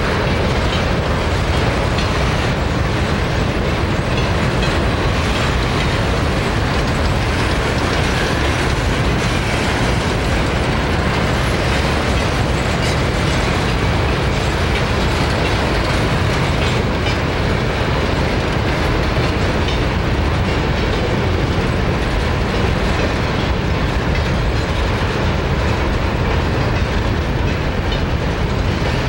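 A long train of empty steel grain hopper cars rolling past, a steady loud rumble and rattle of wheels on the rails.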